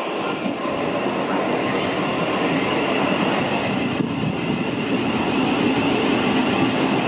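Thameslink electric train running on the rails, growing louder over the first second and then running steadily, with a faint high whine over the rumble.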